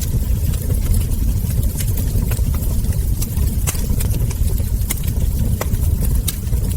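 Wood fire crackling: irregular sharp crackles and ember pops over a steady low rumble.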